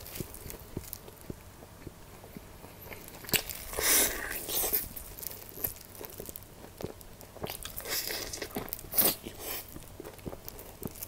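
Mouth sounds of eating crispy fried chicken: steady chewing with small crackles, and louder crunchy bites of the fried crust about three and a half seconds in and again around eight to nine seconds in.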